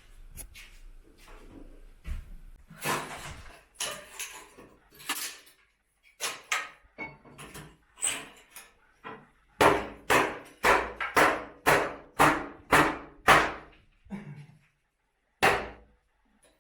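Knocks and blows from demolition work in a small tiled room. Scattered impacts come first, then a quick run of about nine evenly spaced hammer blows, two to three a second, with one more blow near the end.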